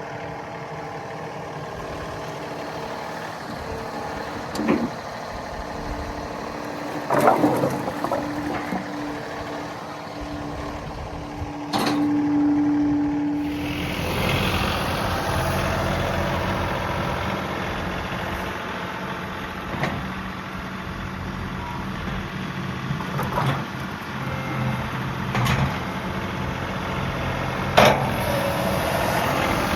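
John Deere 3038E compact tractor's three-cylinder diesel running, with a steady whine for several seconds near the middle and scattered clunks and knocks throughout.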